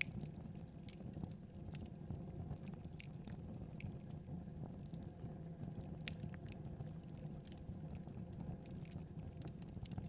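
Wood fire burning with a steady low rumble and irregular sharp crackles and pops scattered throughout.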